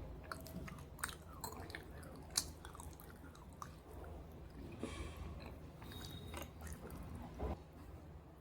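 A person chewing and crunching pieces of slate soaked in red gravy: irregular sharp crunches between bites, the loudest about two and a half seconds in.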